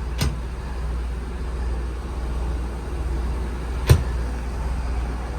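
Steady low rumble of the truck's idling Cummins turbo diesel engine, with two sharp clicks of cabinet latches, one just after the start and a louder one about four seconds in.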